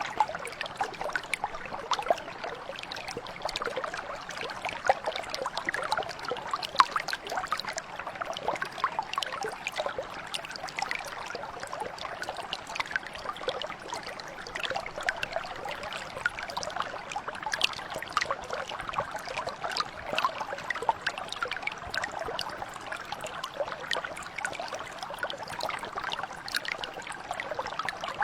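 Small mountain brook flowing steadily, water trickling and babbling over stones with many small splashes.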